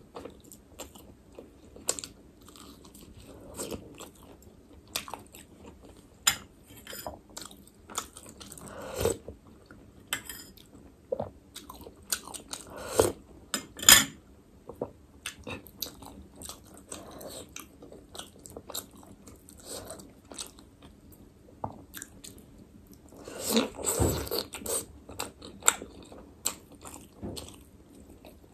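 Close-miked chewing and biting of chicken momo dumplings: irregular wet mouth smacks and clicks, with louder bites about halfway through and again near the end.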